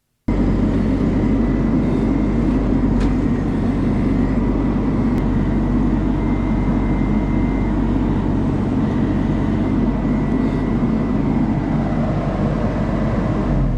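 An engine running steadily and loud close to the microphone. It starts abruptly a moment in.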